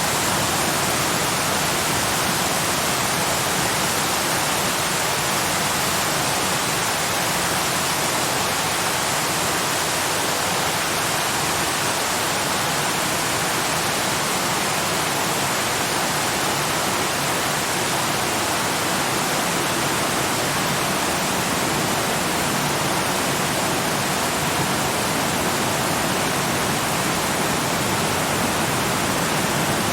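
Waterfall rushing: a steady, unbroken roar of falling water, even and hissy, with no change.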